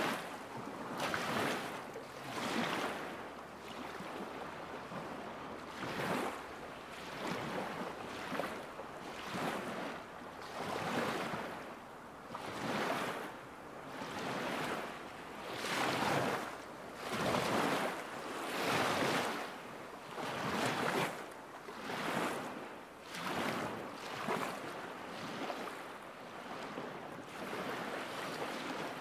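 Small lake waves lapping against the shore, each wash swelling and falling back about every second and a half.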